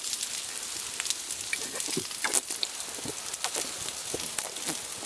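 Food sizzling over a wood fire, a steady hiss with many small crackles and pops.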